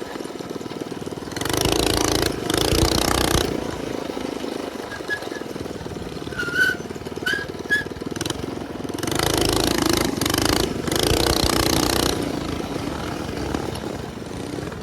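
Minibike's small single-cylinder engine running under throttle. It rises into two long louder revving stretches, one near the start and one about two thirds of the way through, with quieter steady running between.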